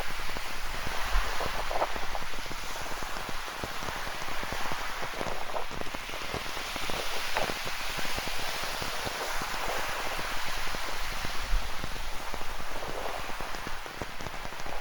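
Steady rain with many close drop hits, over a rushing ocean surf that swells and eases every few seconds.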